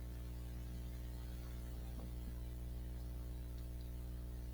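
Steady electrical mains hum, a low buzz with many even overtones, with a few faint ticks about two seconds in.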